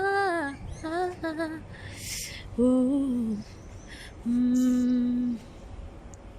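A woman humming a slow wordless tune, several short sung notes, ending on one long held note about four and a half seconds in.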